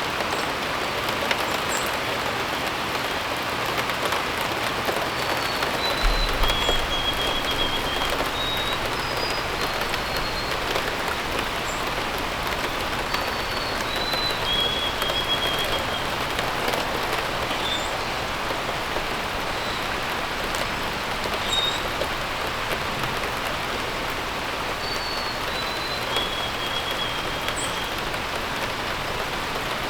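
Steady rain falling, with a songbird repeating a short whistled phrase of stepped, falling notes ending on a held note, three times. Brief high chirps come in between.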